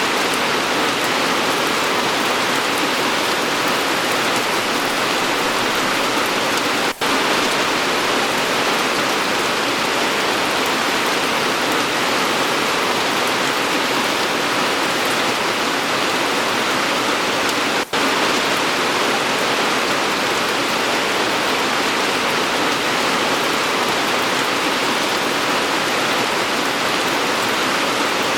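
Steady, dense rainfall, an even hiss of drops pattering on surfaces. The sound cuts out for an instant twice, about a quarter and two-thirds of the way in.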